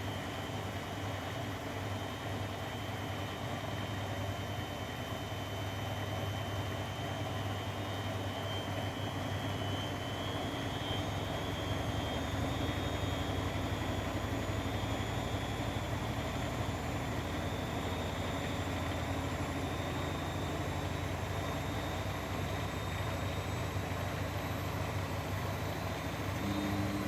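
Grundig washing machine spinning its drum: a steady motor hum with a faint high whine that drifts slowly in pitch, getting a little louder in the first third.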